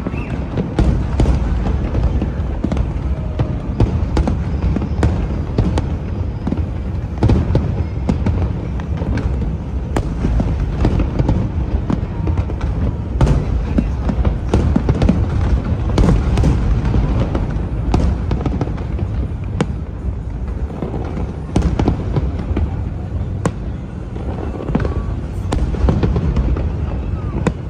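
Aerial fireworks bursting in a dense, continuous run of sharp bangs over a steady low rumble.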